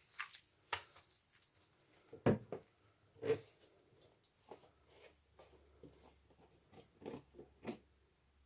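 A sponge loaded with washing machine liquid being squeezed: irregular wet squelches and crackles of suds, the loudest two a little after two seconds in and about three seconds in.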